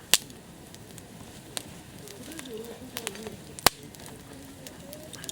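Wood campfire crackling, with scattered sharp pops from the burning wood: a loud one just after the start and another about three and a half seconds in.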